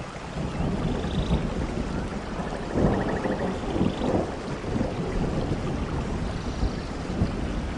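Heavy rain falling steadily, with a low rumble that swells about three to four seconds in. Faint high chirps come through now and then.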